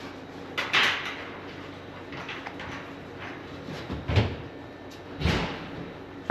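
Tools and metal parts being handled at a work bench: a handful of separate clunks and scrapes a second or two apart, the loudest a little past the middle.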